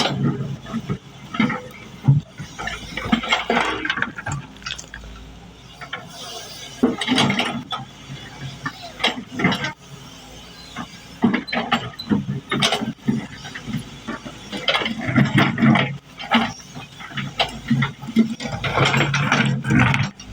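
Excavator at work: the engine runs under irregular metallic clanking and rattling, coming in several bouts.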